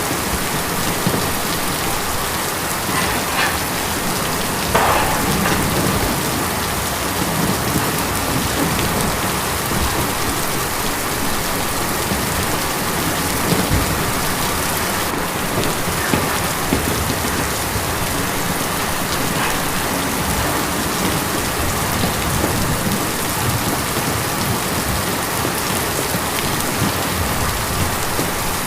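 Steady rain drumming on a tin roof: a dense, even patter with a few louder single drops standing out now and then.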